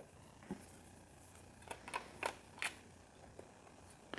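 A handful of faint, sharp clicks as small plastic building-set pieces are handled and fitted together, scattered irregularly, the loudest a little after two seconds in.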